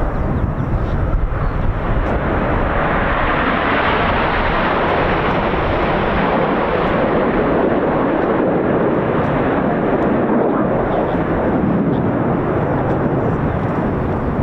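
Jet roar of Red Arrows BAE Hawk T1 aircraft passing, brightest about four seconds in and then deeper as it moves away, with wind buffeting the microphone.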